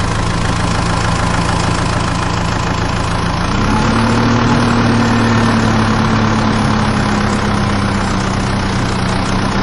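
Tractor engine running steadily, then revving up a little about three and a half seconds in and holding at the higher speed.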